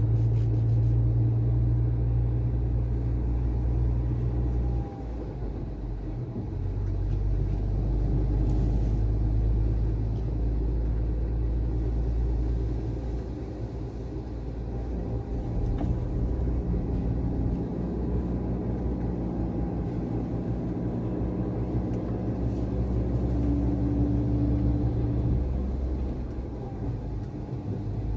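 Heavy truck engine running with a steady low rumble, easing off briefly about five seconds in and again near the end.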